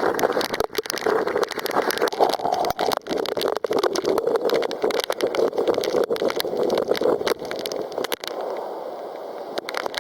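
Typhoon wind and rain buffeting the microphone: a steady rushing noise thick with sharp crackling taps, easing a little near the end.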